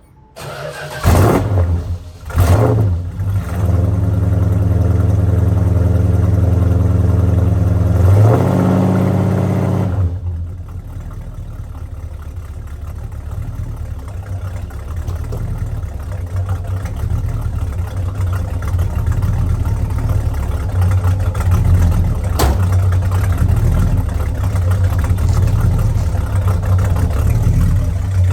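1968 Dodge Coronet R/T's carbureted 440 big-block V8 cold starting after months of sitting: two short bursts as it fires about a second in, then it catches and runs fast, revs up near eight seconds, and drops to a steadier, lower idle at about ten seconds.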